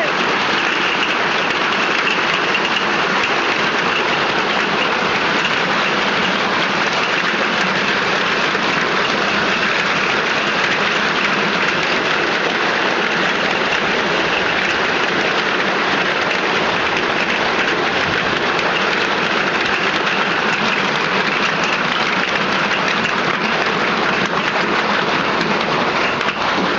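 Hailstorm: hailstones falling thick and fast, a dense, unbroken clatter of impacts that stays steady throughout.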